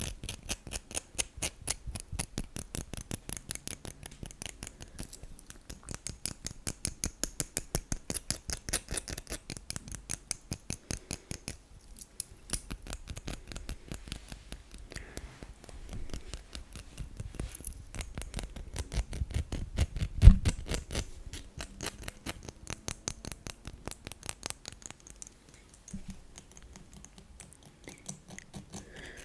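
Fast ASMR tapping and scratching with nail-less fingertips on a small metal pendant studded with rhinestones: runs of rapid, even clicks with short pauses, and one louder knock about twenty seconds in.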